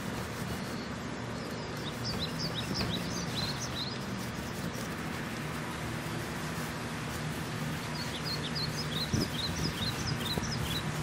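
A small bird calls in two runs of quick, high chirps, over a steady outdoor background hiss.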